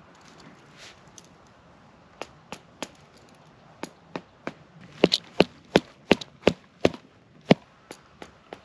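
Knife chopping on a cutting board: a run of sharp chops about three a second, starting about two seconds in with short pauses, loudest in the second half.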